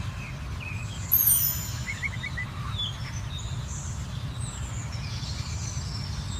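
Birds chirping in short calls over a steady low rumble.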